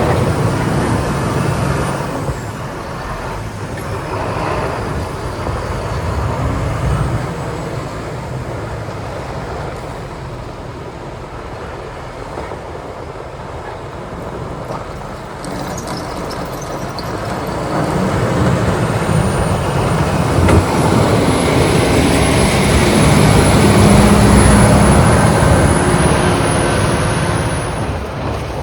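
Diesel motor graders working the road, their engines running continuously. The sound eases off in the middle, then swells to its loudest a little past the midpoint as a grader comes close and falls away near the end, with a thin high whine over the louder part.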